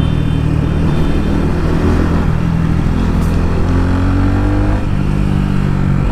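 Vehicle engine running under way, loud and steady, its pitch drifting up and down with speed.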